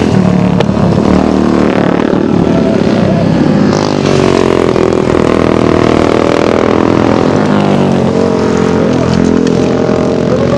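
Several racing engines running hard in a flat-track heat. Their pitches rise and fall together as the machines rev and lift off around the track.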